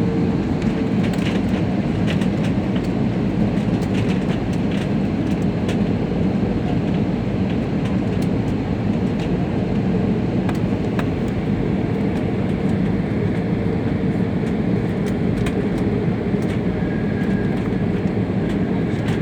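Steady rumble of an airliner cabin, heard from inside, with faint rattles and clicks scattered through it.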